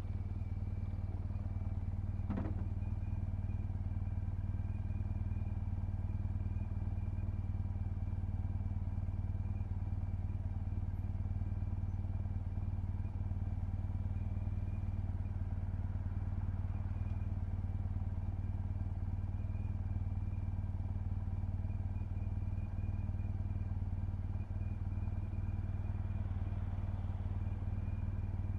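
2007 BMW R1200GS's boxer twin running at a steady pitch under a constant cruise, with no revving. A single short sharp sound cuts across it about two seconds in.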